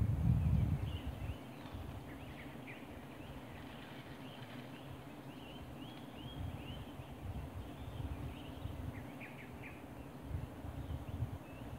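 Small birds chirping in the forest, many short rising and falling calls scattered throughout, over a low rumble that is loudest in the first second.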